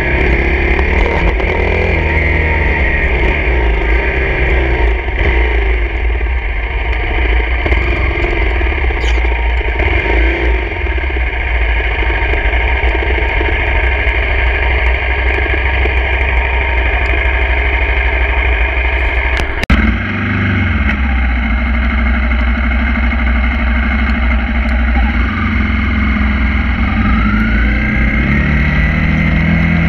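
Single-cylinder engine of a Honda CRF250 dirt bike running under way, with heavy wind rumble on the microphone. The sound breaks off abruptly about two-thirds through and picks up again, and the engine pitch rises near the end as the bike speeds up.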